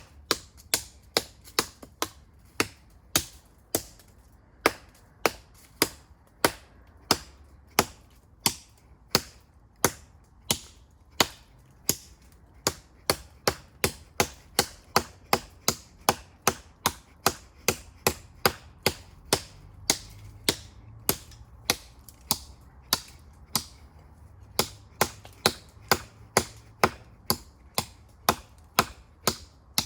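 Knife blade chopping into a tree trunk: a convex-grind knife with an 11.5 cm blade strikes the wood in a steady run of sharp blows, about two a second, with a brief pause about three quarters of the way through.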